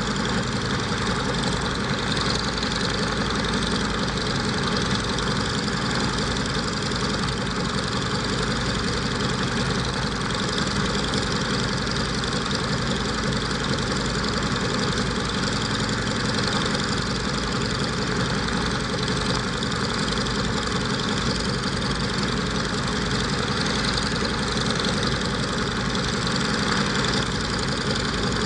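Scottish Aviation Twin Pioneer's Alvis Leonides radial piston engines running steadily on a ground engine run, with an even, unchanging drone.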